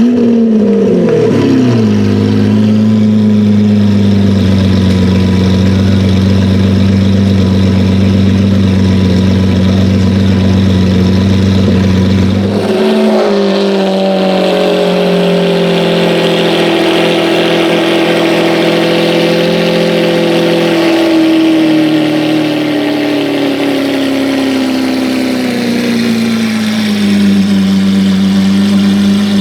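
Lamborghini Aventador V12 engine idling just after start-up: the revs drop from a flare to a steady idle in the first two seconds. About 13 s in the idle steps up, then sinks slowly back to the same steady idle over the next fifteen seconds.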